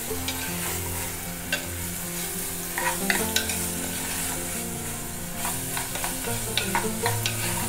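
Chopped onion sizzling as it sautés in oil in a clay pot, with a spoon stirring through it and scraping against the pot several times.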